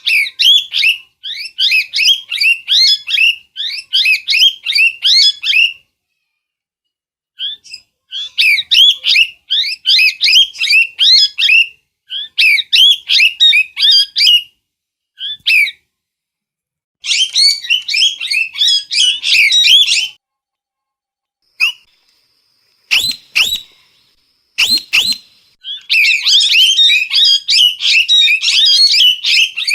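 A parrot calling in rapid strings of high-pitched chirping squawks, several a second, in runs of a few seconds broken by silent gaps. Two short sharp sounds come a little past the middle.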